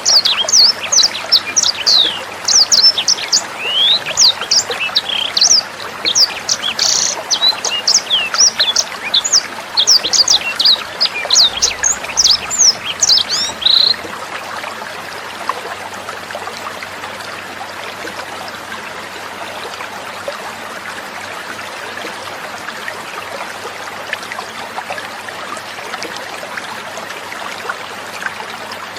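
A sanger bird singing a rapid, dense string of high, sharp chirps and whistles over trickling water. The song stops about halfway through, leaving only the steady trickle of water.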